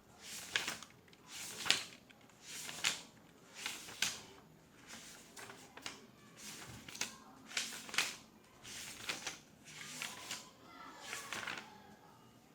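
Office ambience track: a series of short rustling, shuffling sounds, about one a second, each lasting under half a second.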